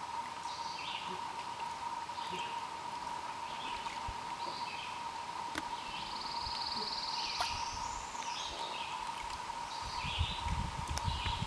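Small birds calling outdoors: short chirps repeated every second or so, with one longer buzzy trill in the middle that rises at its end. A steady thin hum runs underneath, and low rumbles come near the end.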